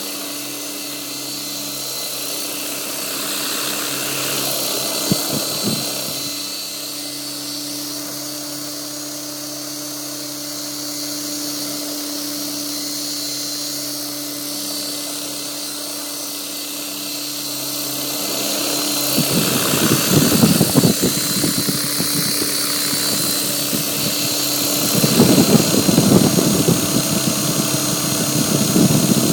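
Gaui Hurricane 550 RC helicopter hovering: a steady motor and rotor whine with a low rotor hum. About two-thirds of the way through, a gusty rushing noise joins in and grows louder near the end.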